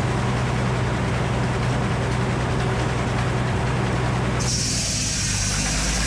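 Frick circular sawmill running: a steady, loud mechanical drone with a low hum. About four and a half seconds in the sound turns abruptly brighter and hissier.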